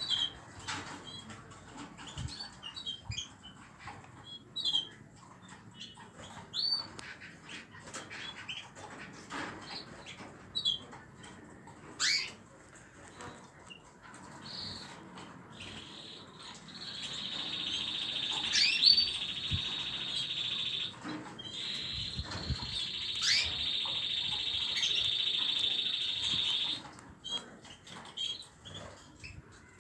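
Young pet birds chirping in short high calls, and from about halfway in, a loud unbroken high trill lasting about ten seconds before breaking back into separate chirps.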